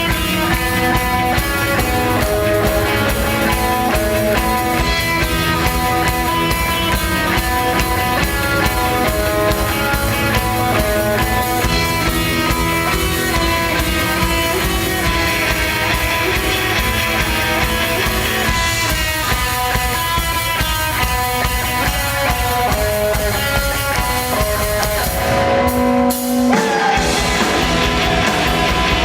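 Live rock band playing an instrumental passage with electric guitars and a drum kit, briefly cutting out near the end before coming back in.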